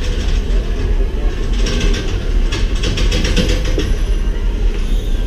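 Steam train rolling slowly, heard from an open passenger car: a steady low rumble from the wheels and running gear, with a run of metallic clicks and clacks from the wheels and couplings about two to three and a half seconds in.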